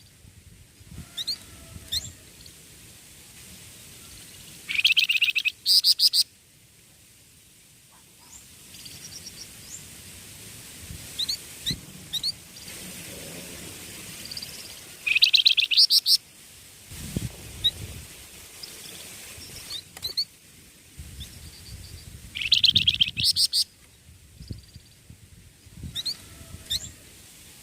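Young songbird singing: loud bursts of rapid, stuttering high trills every several seconds, with short thin chirps in between.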